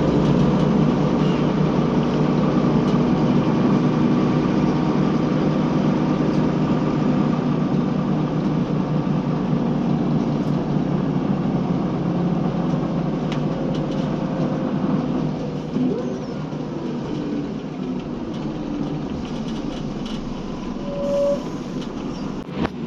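Scania L94UB city bus under way, its diesel engine and drivetrain running with steady road noise. The sound eases somewhat about two-thirds of the way through.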